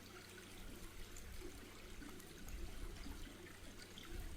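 Faint steady rushing noise like trickling or running water, over a low steady hum.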